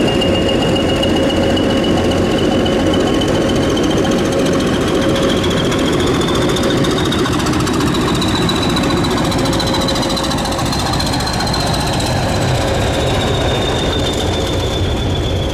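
Preserved British Rail diesel locomotive running loudly with a rough engine note, a steady mid tone and a high whine that slowly rises in pitch and then falls back.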